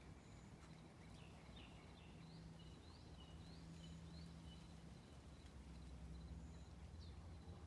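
Faint birdsong: a string of short, quick rising chirps and a few thin high whistled notes, over a low hum that comes and goes.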